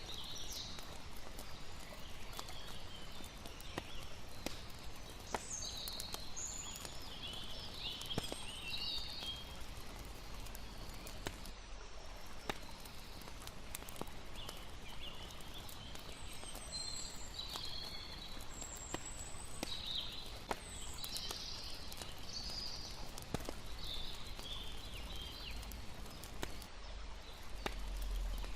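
Layered night ambience: a campfire crackling in scattered sharp clicks, short chirping calls high up that come and go, and a steady hiss of lapping water underneath.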